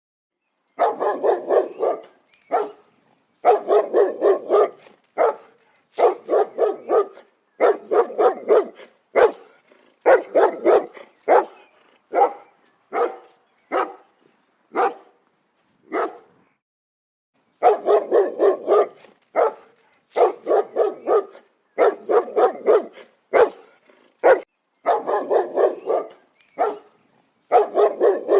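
Big dogs barking loudly in rapid runs of several barks at a time, broken by single barks and short pauses.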